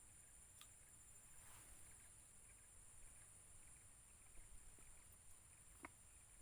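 Near silence: a faint, steady high-pitched whine in the background, with a couple of soft clicks.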